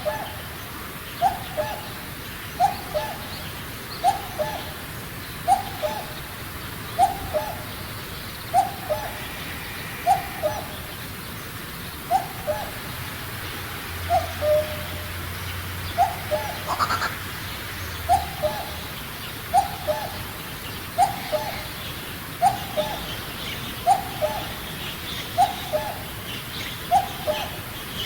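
Common cuckoo calling its two-note falling "cuck-oo", repeated evenly about every second and a half, with faint chirps of other small birds near the end.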